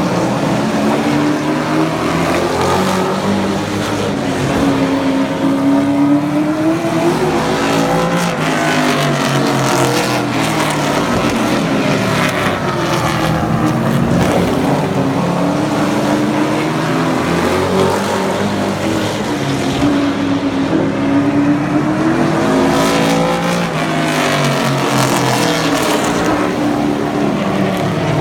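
Super truck race engines running hard around the oval, their pitch falling and rising again and again as the trucks lift and accelerate through the laps.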